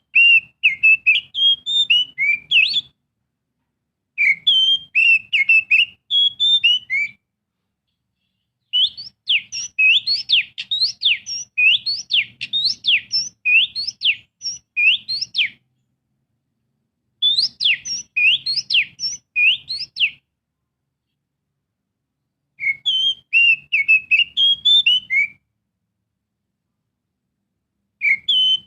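Oriental magpie-robin (kacer) singing in phrases of rapid, varied whistled notes, with pauses of one to three seconds between phrases. The longest phrase, in the middle, is made of quick up-and-down whistled sweeps. This is a lure song of the kind played to prompt other magpie-robins to sing.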